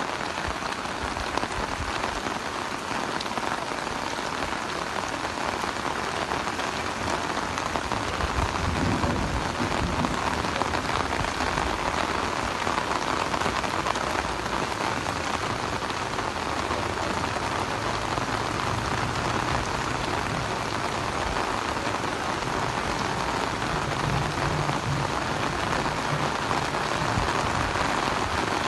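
Heavy rain falling steadily, with a low rumble coming and going beneath it in places.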